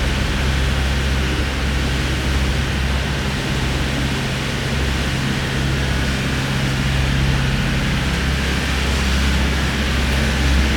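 A small passenger boat's engine running steadily underway, a low constant drone under a steady rush of water and wind.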